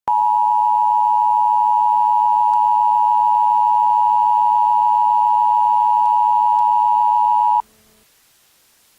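Emergency Alert System attention signal: a loud, steady two-tone alarm that announces an emergency alert message. It holds for about seven and a half seconds, then cuts off suddenly, leaving a faint hiss.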